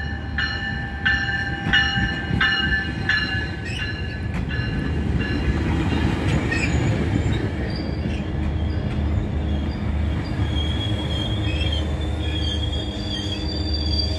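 Metrolink bilevel commuter train arriving and rolling past along the platform. For the first four seconds a warning bell dings about once every 0.7 s over the rumble of the cars. From about ten seconds in, a high wavering wheel squeal comes in as the train slows.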